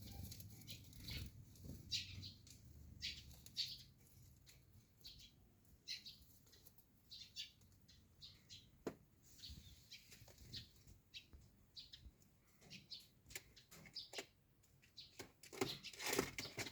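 Domestic pigeons in a colony loft: faint, scattered wing flaps and short high chirps, with a louder flurry near the end.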